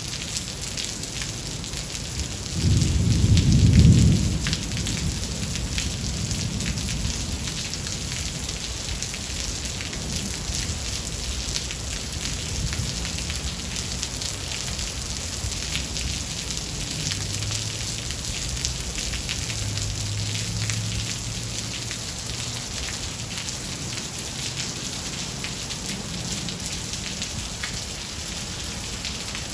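Steady heavy rain falling, with a loud clap of thunder about three seconds in that rumbles away over a couple of seconds, and fainter distant rumbles later on.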